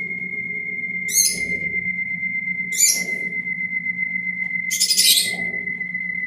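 Brastemp Ative 11 kg washing machine spinning a load of rugs, with a steady high-pitched whine over a low hum and three short scraping bursts about one, three and five seconds in. This is the strange noise that worries the owner.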